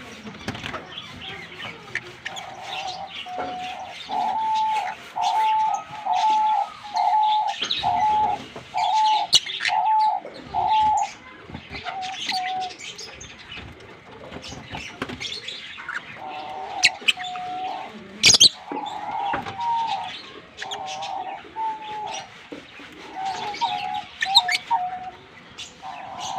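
Green Fischer's lovebirds chirping, with sharp high chirps throughout and a steady run of about a dozen repeated lower notes, roughly one and a half a second, from about two seconds in to the middle, then more broken lower phrases near the end.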